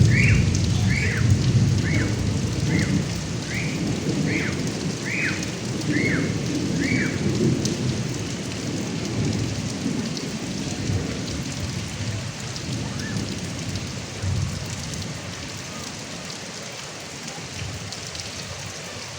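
Heavy rain pattering and dripping at a gutter spout, with a low rumble of thunder that is loudest at the start and slowly dies away. Over the first seven seconds a run of short falling chirps repeats about once a second.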